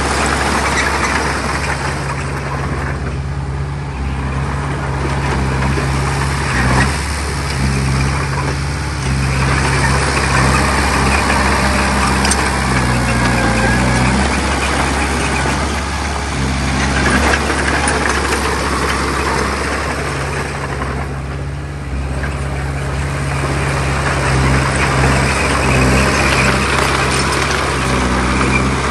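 Heavy diesel engine of a bulldozer running steadily, with a noisy clatter that swells and fades several times over it.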